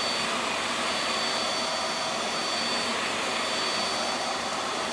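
VAX Air Stretch Pet Max upright vacuum cleaner running steadily on carpet, its motor giving a constant whine over the rush of air, the head sucking down onto the carpet pile.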